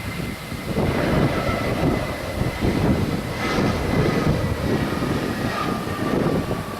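Jet airliner's engines: a rumble with a steady high whine over it.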